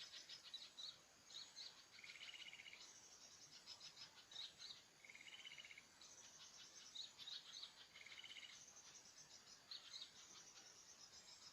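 Small birds chirping in short high notes, with a short buzzy trill repeated three times about three seconds apart, over a steady high insect chorus.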